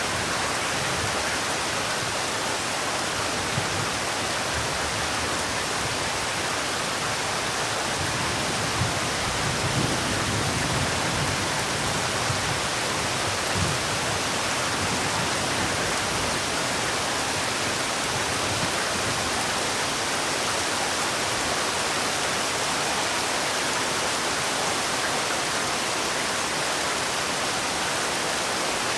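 Heavy rain falling steadily as an even hiss, with a few faint low thuds in the middle.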